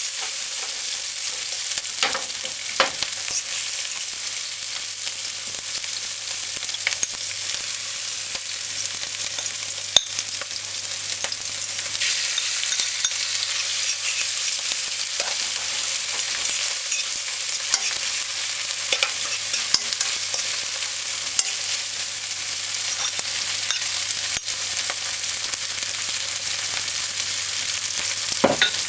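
Diced onion, scallion and sweet pepper sizzling steadily in hot oil in a frying pan, with a few sharp clicks of stirring against the pan. About twelve seconds in the sizzle gets louder and brighter as sardines go into the oil.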